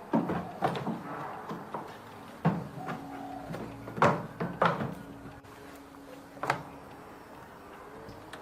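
A series of sharp knocks and clunks from hard parts being handled and set down, about seven in all, the loudest about four seconds in, with a faint steady hum in the middle.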